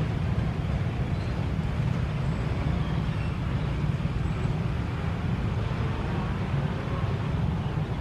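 Steady low engine rumble: a diesel-hauled passenger train pulling away, mixed with motorcycles at the level crossing.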